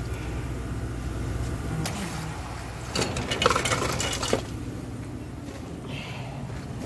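Small hard objects clinking and clattering as they are handled, in a cluster about three seconds in and a few fainter clinks near the end, over a steady low hum.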